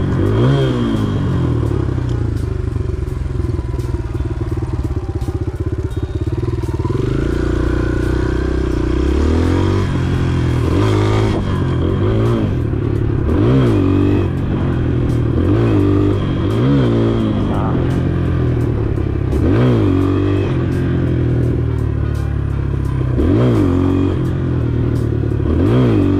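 Sport motorcycle engine idling and revved in repeated quick throttle blips, each rising and falling within about half a second, with a longer climb in revs about seven seconds in.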